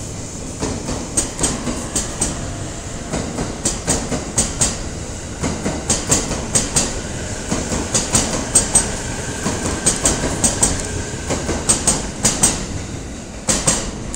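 A JR East E657 series electric multiple unit pulls out at low speed, its wheels clacking over a rail joint under a steady rolling rumble. The clacks come in groups of four about every two seconds as each pair of bogies passes, and the groups draw slightly closer together as the train gathers speed.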